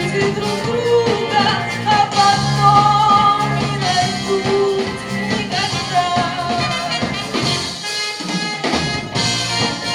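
Band music with drums, bass and a sustained melodic lead line in an upbeat rock-and-roll style; the bass and drums drop out briefly about eight seconds in.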